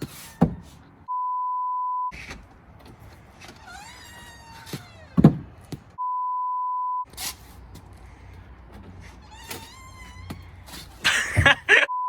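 A steady bleep tone about a second long sounds three times, like a censor bleep. Between the bleeps come rising and falling pitched sounds and several thumps, the loudest about five seconds in.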